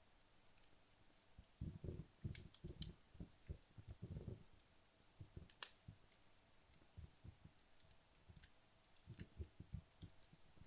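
Wood fire burning low in a fireplace: faint, sparse crackles and sharp ticks, with clusters of soft low thuds about two to four seconds in and again near the end.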